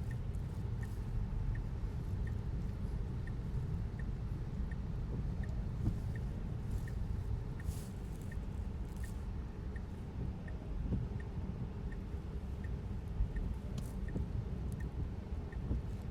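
Tesla's turn-signal indicator ticking evenly, about one and a half ticks a second, over a steady low rumble of road and tyre noise in the cabin. A few faint clicks fall in between.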